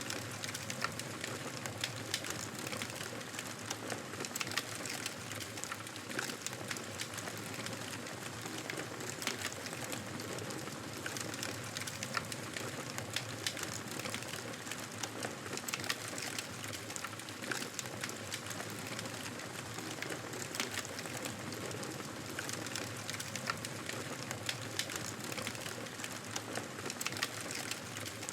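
Wood fire burning in a fireplace: a steady hiss of flames with frequent small crackles and pops scattered irregularly throughout.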